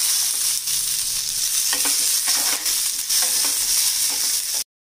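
Groundnuts and curry leaves sizzling in hot oil in an aluminium pan, with a metal spoon stirring and scraping the pan in scattered clicks. The sound cuts off suddenly near the end.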